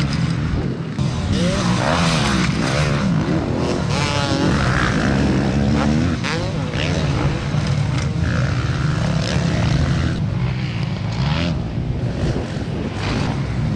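Several motocross bikes racing, their engines revving up and down and overlapping one another.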